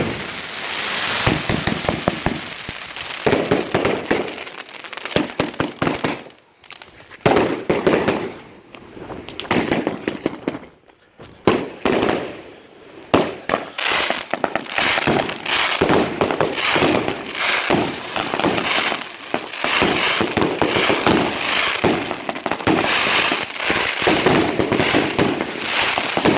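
Consumer fireworks cake firing in rapid sequence: shots lifting one after another and popping in the air with crackle, with two brief lulls, about a quarter of the way in and near the middle, before the firing picks up again.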